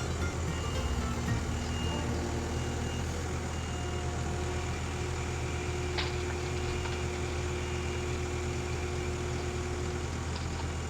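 Skid steer engine running steadily with a constant low drone. A single short knock comes about six seconds in.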